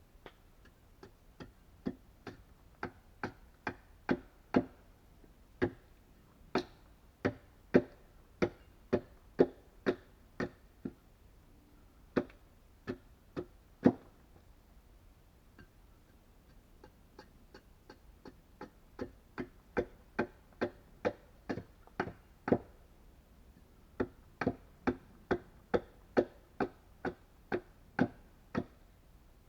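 Blows driving wooden nails into a log subfloor: sharp wooden knocks about two a second, in four runs with short pauses between them. The first run grows louder as it goes.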